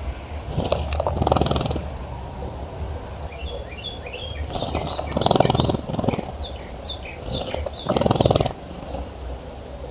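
A bird splashing in a bird bath, fluttering its wings in the water in three bursts of about a second each. Between the bursts come a string of short, high chirps.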